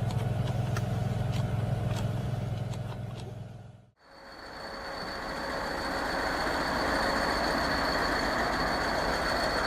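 A heavy vehicle's diesel engine running under load, a steady low hum that fades out about four seconds in. It gives way to a different steady machine noise, a rushing sound with a thin high whine, which fades in and holds.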